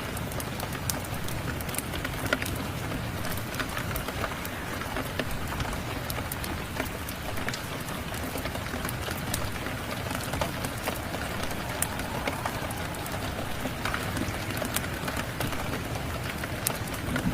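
Steady rain, a constant hiss, mixed with frequent small sharp pops and crackles of a wood fire burning in a fireplace.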